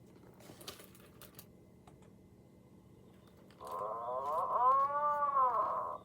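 A few light clicks, then about three and a half seconds in a recorded Atlantic puffin call: a low, drawn-out growl whose pitch arches up and down, like someone's belly growling.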